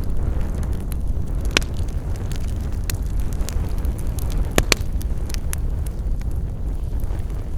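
Wood campfire crackling, with many small snaps and a few louder pops: one about a second and a half in and two in quick succession around four and a half seconds in. A steady low rumble runs underneath.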